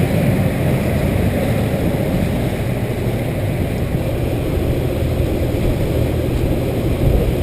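A ferry's engine running with a steady low rumble under the deck.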